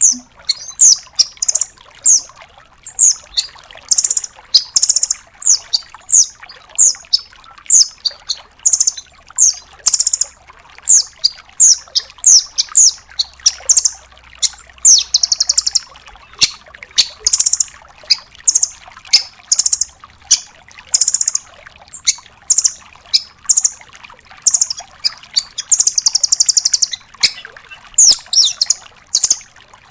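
Nuthatch calling in a rapid, continuous string of short, sharp, high-pitched notes, about one or two a second, broken now and then by longer trilled phrases.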